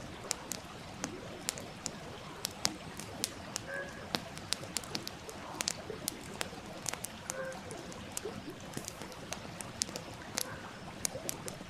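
Wood campfire crackling, with frequent sharp pops and snaps, over the steady rushing murmur of a nearby stream.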